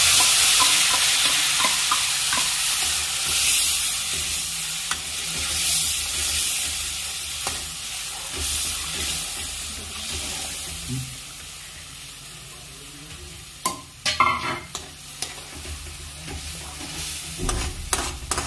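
Ground masala paste hitting hot oil in a steel kadhai and sizzling loudly, the hiss fading over about ten seconds as it is stirred in with a metal slotted spoon. Near the end the spoon scrapes and knocks against the pan several times.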